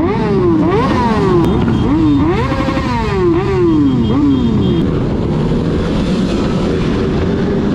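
Yamaha R3 parallel-twin motorcycle engine revving, its pitch climbing and falling several times in quick succession, then settling into a steadier drone from about five seconds in.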